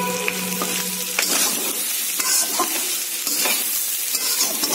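Eel pieces and green paste sizzling in a hot metal wok while a spatula stirs them, with several sharp scrapes and taps of the spatula against the pan.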